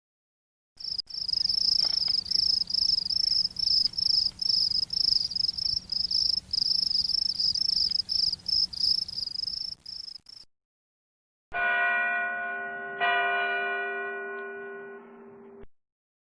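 A high-pitched ringing that pulses rapidly and evenly for about ten seconds, then stops. After a short gap a bell is struck, struck again about a second and a half later, and left to ring out and fade.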